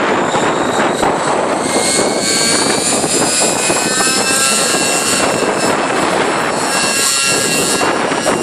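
Nitro-engined Align T-Rex 600 RC helicopter flying, its engine and rotor whine gliding up and down in pitch, buried in heavy wind buffeting the microphone.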